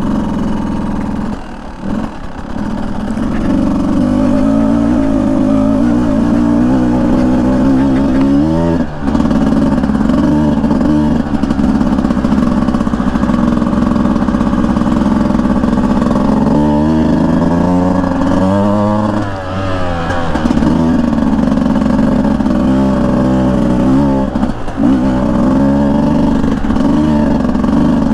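Beta 200 two-stroke dirt bike engine running under way, its revs rising and falling with the throttle several times, most noticeably about a third of the way in, again a little past the middle, and once more near the end.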